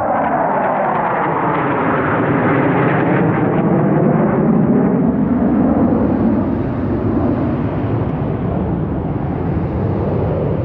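F-16 fighter jets flying past: a loud jet rush whose pitch slides downward over the first few seconds as they go by, loudest about four to five seconds in, then easing off slowly.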